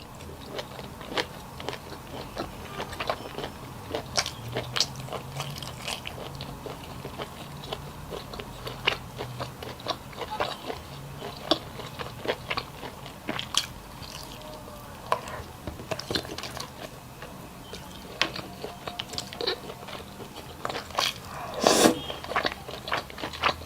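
Close-up sounds of a person eating: chewing and biting with many small, irregular crunches and clicks, and one louder, longer noise near the end.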